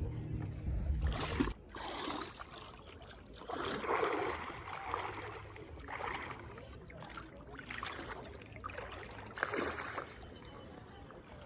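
Kayak paddle strokes splashing in the river, a swell of water noise every second or two, with wind buffeting the microphone for the first second and a half.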